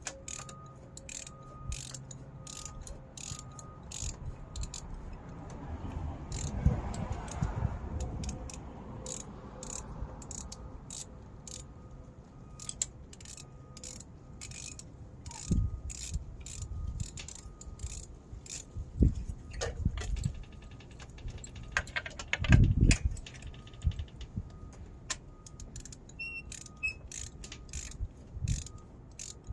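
Ratchet driving a magnetic spark plug socket, clicking in a steady run of about two clicks a second as a spark plug is unscrewed from the engine, with a few dull knocks of the tool against the engine in the second half.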